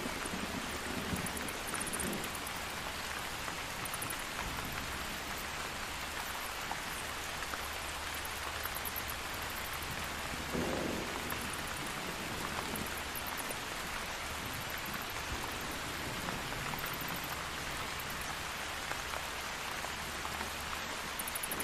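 Steady rain falling, with a short low rumble of thunder about halfway through. Bats give brief bursts of rapid, very high chirps now and then.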